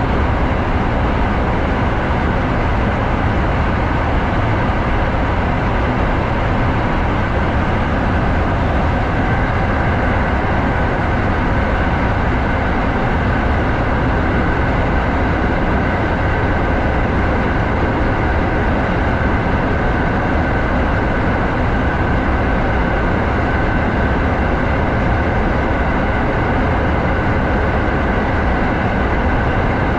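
Kintetsu 7000 series electric train running steadily through a tunnel: a continuous rumble of wheels on rail, with a faint steady whine on top.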